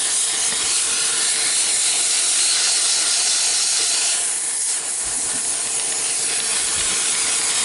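Compressed-air blow gun hissing steadily as it blows dust out of a dirty truck air filter element. The hiss briefly shifts and dips about four to five seconds in.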